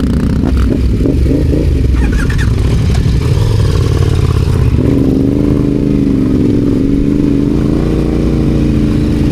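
Adventure motorcycle engine running, the throttle worked unevenly for the first few seconds, then settling about halfway in to a steady note that wavers slightly in pitch.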